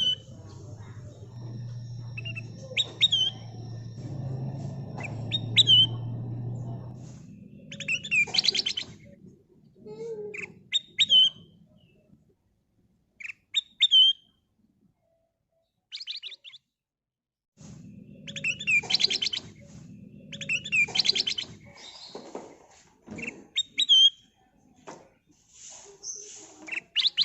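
A kutilang emas bulbul singing: short whistled calls that slide up and down, and quick chattering bursts, repeated every second or two. There is a brief pause about halfway through, and a low rumble underneath at times.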